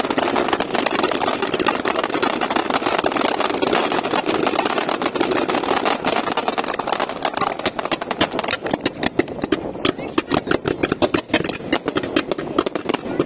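Fireworks display: a dense, continuous wash of bangs and crackle. From about halfway it turns into a rapid crackle of many sharp pops.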